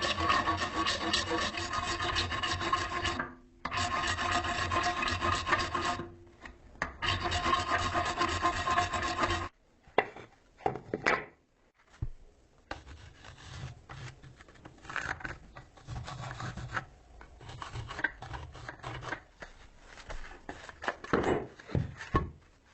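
Abrasive shaping of the knife by filing, rasping or sanding. It starts with three loud stretches of continuous scraping, each about three seconds long, carrying a faint steady ringing. After a short pause, quieter, broken scraping strokes follow.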